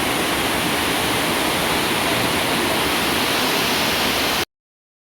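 Heavy rain falling steadily, a dense even hiss, cutting off suddenly about four and a half seconds in.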